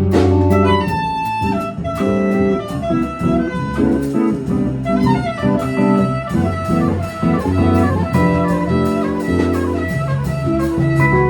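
Jazz quartet playing live: a horn carries a melodic line over bass notes and drums keeping time on the cymbals.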